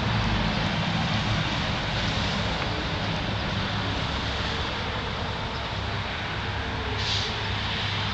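Steady low vehicle engine hum under a broad hiss, with a short brighter hiss about seven seconds in.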